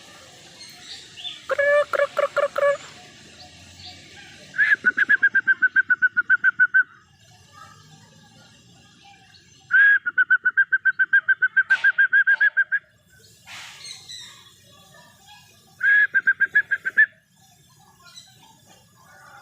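A bird calling in four bouts of rapid, evenly repeated notes, about six a second, each bout lasting one to three seconds with short pauses between.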